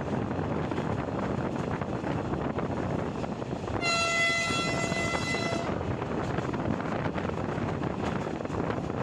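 Passenger train running on the rails, a steady rumble heard from a carriage window. About four seconds in, the diesel locomotive's horn sounds one steady note for about two seconds.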